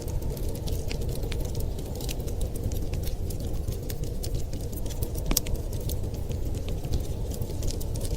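Wood fire crackling with frequent sharp, irregular pops and snaps over a steady low rumble.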